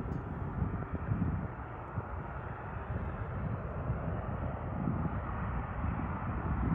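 Jet aircraft engine noise: a steady, noisy rumble whose low end swells and fades unevenly.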